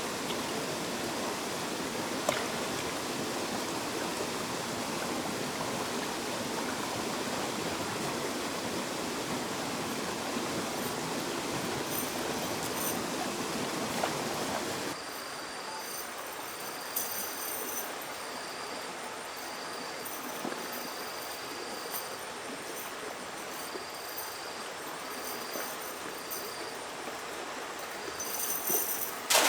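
Running stream water, a steady rush. About halfway through it cuts abruptly to quieter flowing water with a high, repeating chirp over it, and a few louder irregular sounds near the end.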